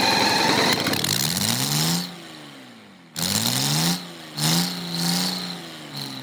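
Cummins NTA855 six-cylinder turbo diesel running and being revved in repeated throttle blips, its pitch rising and falling several times. It drops back about two seconds in and comes in loud again about a second later.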